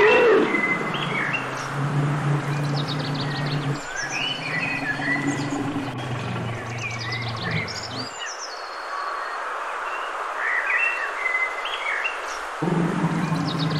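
Small birds chirping and trilling repeatedly over steady outdoor background noise, with a low steady hum that cuts out about eight seconds in and comes back near the end.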